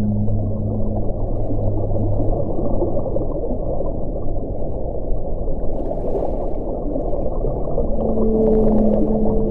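Strong wind blowing steadily in a low, rushing band. A low steady tone fades out about three seconds in, and a second pair of tones sets in about eight seconds in.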